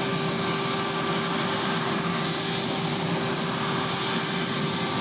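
Marine One helicopter's turbine engines running steadily, a continuous rushing noise with a faint steady whine over it.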